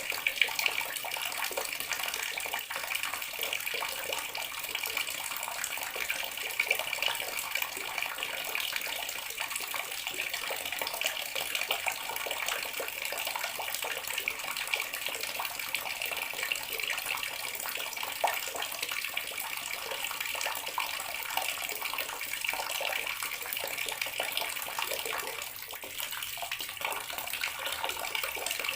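Water tap running steadily into a bathroom sink, a continuous splashing stream.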